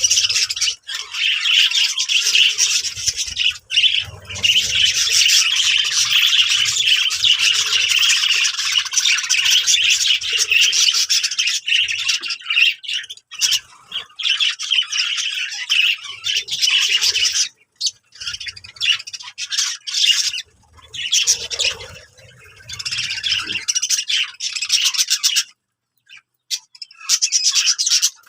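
Birds chattering and squawking in a dense stream of rapid, high calls, with a few short pauses in the second half.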